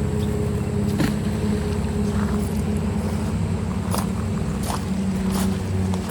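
A vehicle engine running steadily with a low drone, with a few light clicks over it.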